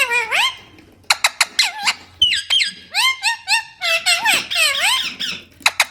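Green parrots calling: squeaky calls that bend up and down in pitch, some overlapping, mixed with runs of short, sharp chirps about a second in and again near the end.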